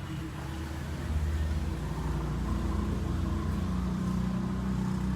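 A large vehicle's engine running steadily, getting louder about a second in and then holding at a steady note.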